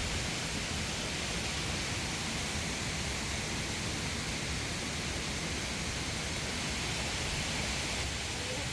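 Steady, unbroken rushing hiss with a low rumble underneath.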